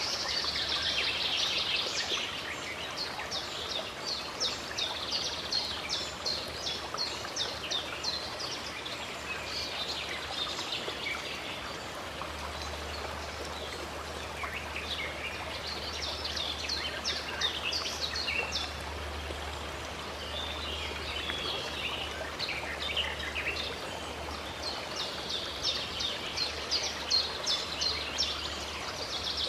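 Running stream water with small birds singing over it in bouts of rapid, repeated high notes.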